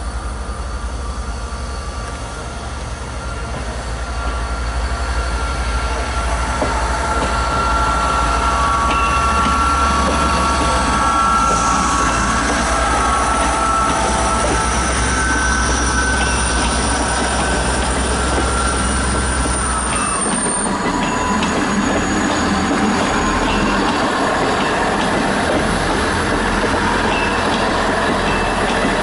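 A South Western Railway diesel multiple unit pulling out and passing close by, its engines running and its wheels squealing on the curving track. The sound swells over the first several seconds, then holds steady, and the squeal drops in pitch about two-thirds of the way through.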